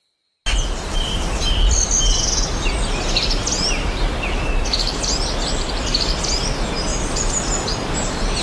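Several birds chirping and calling: many short chirps and quick falling notes over a steady low rumble, starting abruptly about half a second in.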